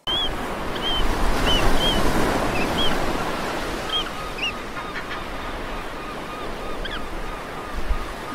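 Waves washing on a shore, with birds calling over them: short high chirps several times in the first half, then a quick run of lower calls.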